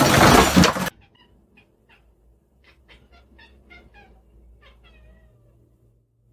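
A loud, noisy sound cuts off about a second in. Then a cat gives a quick series of about a dozen short, high meows, the last one longer and falling in pitch.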